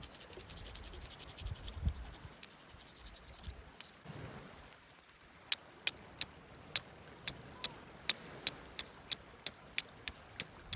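Scratching and scraping at first, then a steady run of short, sharp clicks, about three a second, through the second half.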